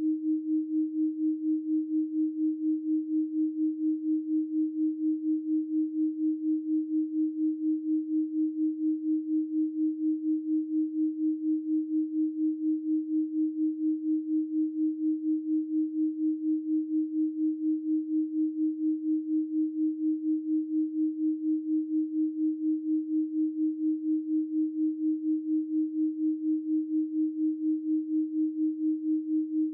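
A steady 312 Hz pure sine tone, a single unchanging low-mid hum with no overtones, pulsing evenly in loudness several times a second.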